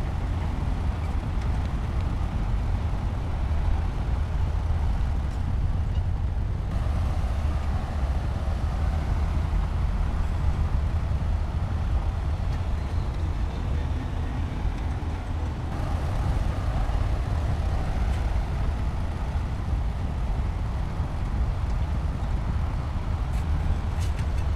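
Heavy diesel construction machinery running steadily with a deep, low engine rumble.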